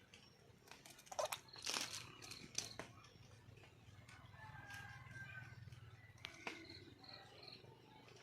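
Faint calls of a wild red junglefowl hen calling for a mate: short, scattered calls, loudest in the first few seconds, with a few brief pitched notes near the middle.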